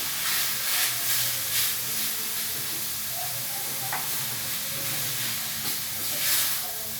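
Meat searing in a hot frying pan: a steady sizzle that flares louder as it is stirred, during the first two seconds and again near the end.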